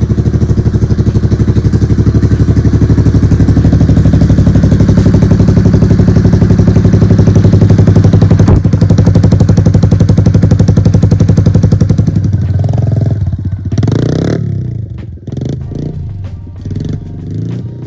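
Honda CRF110's small single-cylinder four-stroke engine running through a BBR D3 aftermarket exhaust, a steady pulsing exhaust note. It fades out about twelve seconds in, leaving scattered clattering.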